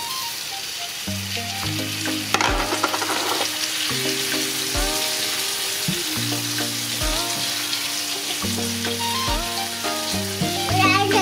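Chopped fresh tomatoes sizzling in a hot frying pan of cooked onion and tomato paste as they are tipped in and stirred with a spatula. Background music with held bass notes and a regular beat plays under the sizzle.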